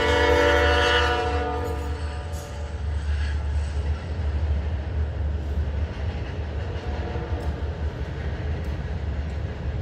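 A loud air horn sounding a multi-tone chord that dies away about two seconds in, over a steady low rumble.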